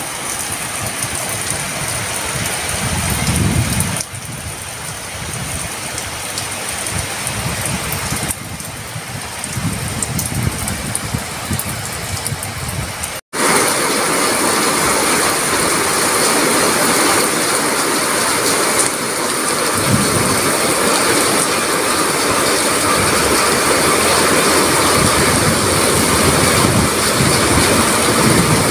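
Heavy rain pouring steadily, with low rumbles swelling and fading now and then. It cuts out for an instant about halfway through, then comes back louder.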